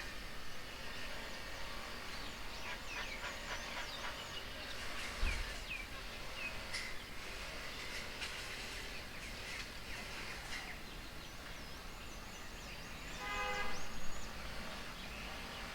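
Several wild birds chirping and calling over steady outdoor background noise, with a brief, lower, harsher call about thirteen seconds in.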